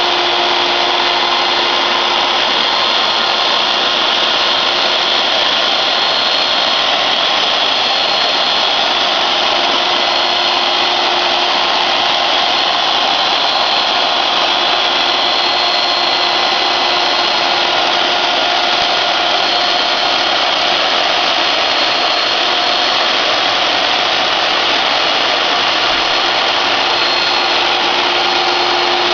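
CNC router cutting a slot car track, running steadily: a constant whine over a dense rushing noise, with no pauses.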